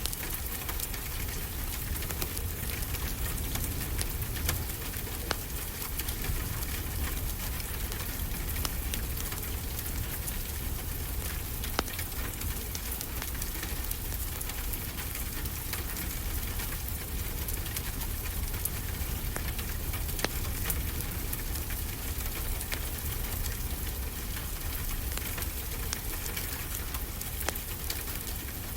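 Wood fire crackling, with frequent small pops, over a steady wash of ocean surf.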